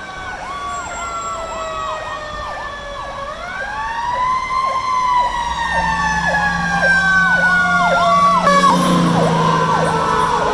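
Fire engine sirens: a fast electronic yelp repeating about three times a second, layered with a Federal Q2B mechanical siren winding up and then slowly coasting down in pitch. The truck's Detroit Diesel engine comes in under them partway through, and the whole sound grows louder.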